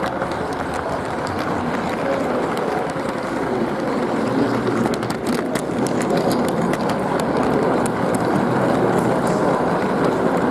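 G-scale model train rolling along its track, a steady rumble of wheels on rail with scattered sharp clicks, heard from a camera riding on the train.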